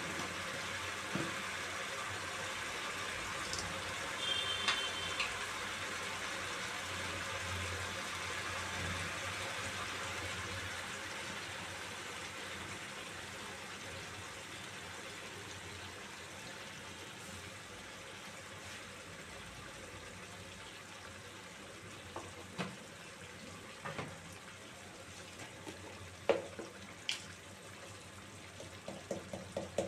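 Chicken and onions frying in oil in a kadai, a steady sizzle that slowly grows fainter, with a few light clicks. Right at the end, quick rhythmic strokes begin as the food is stirred.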